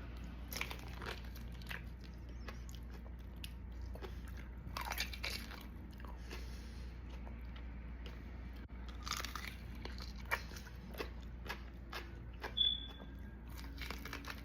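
Quiet, irregular mouth sounds of a person chewing the jelly-like pulp and seeds of a horned kiwano, with small wet clicks and a few denser bursts of chewing, and a short high squeak near the end.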